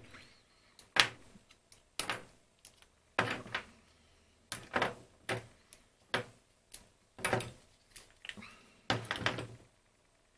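Irregular sharp clicks and knocks of hard plastic phone parts being handled and set down on a bench, about a dozen across the stretch with short gaps between.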